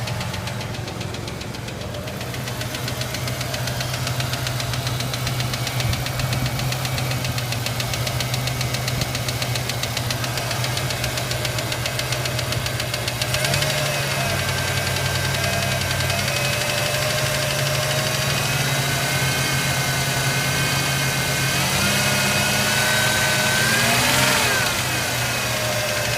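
A Ranger's engine running with a fast ticking over it, an unexplained tick its owner is asking about. The engine speed rises about halfway through, climbs again near the end and then drops back.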